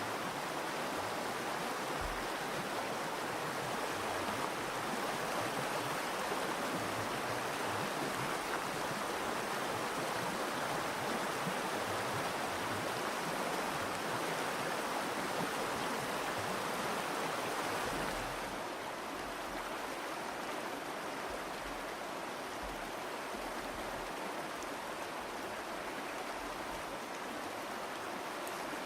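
Virgin River flowing over rocks: a steady rushing of stream water that turns slightly quieter and duller about two-thirds of the way through.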